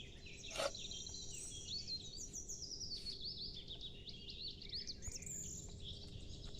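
Birds chirping, many short rising and falling calls in quick succession. A single light knock about half a second in.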